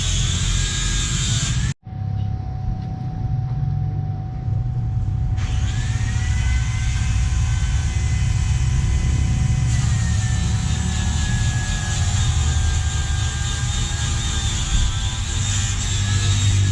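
Yamaha R25's parallel-twin engine running through a Prospeed full-system exhaust, with a deep rumble. The sound cuts out abruptly about two seconds in, then picks up again and runs on steadily.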